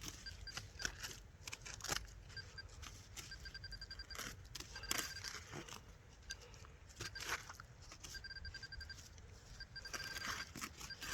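Metal detector giving runs of short, rapid beeps at one steady pitch, several times over, with sharp clicks and scrapes of digging in wet ground between them.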